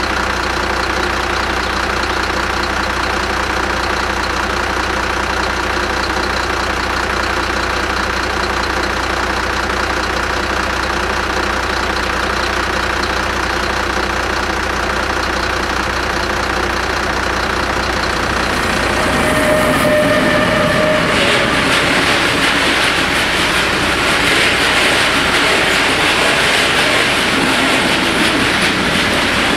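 A steady hum of idling car engines, then about 19 s in a freight train of hopper wagons arrives with a brief tone and rolls past, its wheels clattering over the rail joints.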